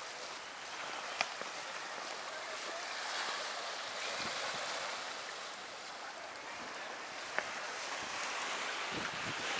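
Harbour water washing against shoreline rocks: a steady hiss that slowly swells and eases. Two sharp clicks stand out above it.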